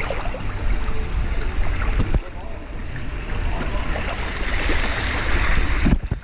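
Wind buffeting the microphone: a steady rushing noise that cuts off suddenly near the end.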